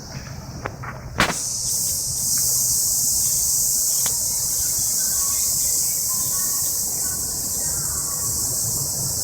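Cicadas singing, a steady high-pitched buzz that jumps much louder after a sharp click about a second in and then holds.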